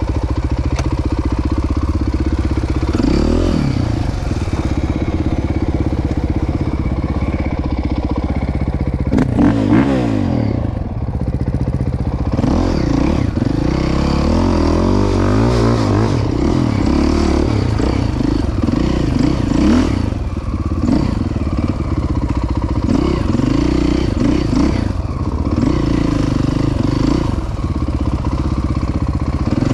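Dirt bike engine being ridden, its pitch rising and falling over and over as the throttle opens and closes and the gears change.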